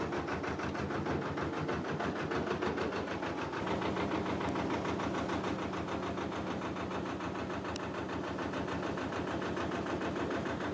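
Narrowboat diesel engine running steadily with an even, rapid firing beat.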